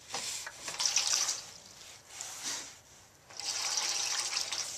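Water running into the bowl of a Nelson automatic horse waterer from its weighted fill valve, coming in three spells of hiss, the last the longest.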